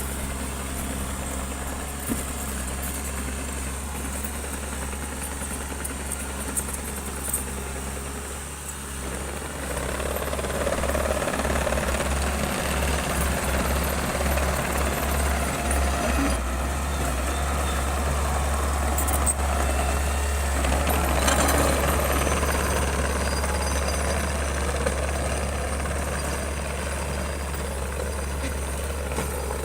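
Bulldozer's diesel engine running with a steady low drone, growing louder about ten seconds in and staying up.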